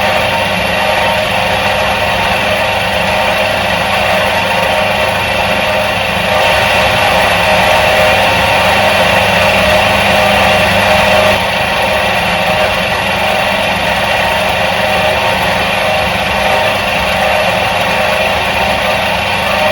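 Electric motor of a 1977 Soviet washing machine running steadily, an even mechanical hum and whir that gets slightly louder for a few seconds in the middle.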